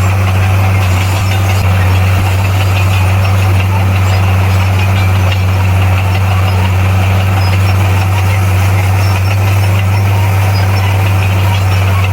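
Bulldozer's diesel engine running steadily, a loud, low drone that holds one pitch throughout.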